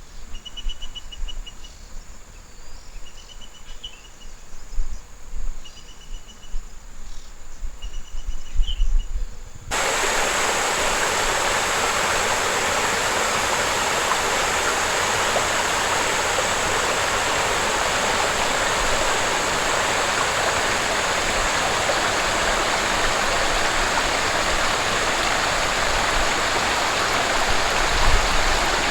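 A quiet outdoor scene with a short, pulsed, chirping trill repeating every couple of seconds, then an abrupt switch about ten seconds in to the loud, steady rush of running water, like a stream or waterfall.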